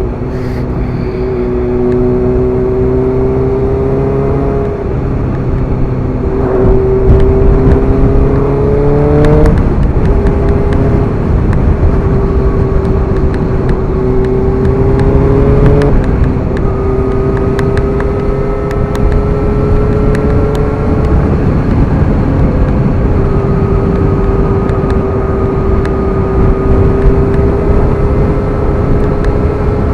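Suzuki GSX-R motorcycle engine under way: its note climbs slowly, drops sharply at two upshifts about ten and sixteen seconds in, then holds steady at cruising speed. Wind rushes over the helmet microphone throughout.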